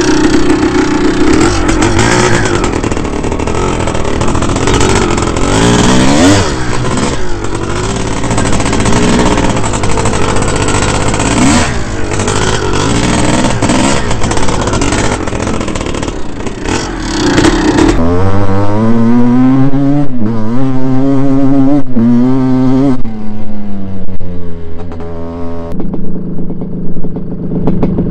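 Dirt bike engines running and revving, heard across several clips cut together; from about two-thirds in, one engine's pitch climbs and falls repeatedly with the throttle.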